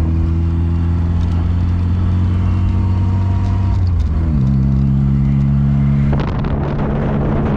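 Classic car's engine and road noise while cruising on the highway; the engine's pitch drops slightly about four seconds in, and about six seconds in a rush of noise lasting about two seconds rises over it.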